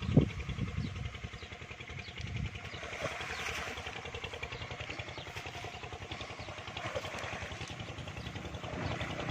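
A small engine running steadily, with a couple of heavy low thumps right at the start.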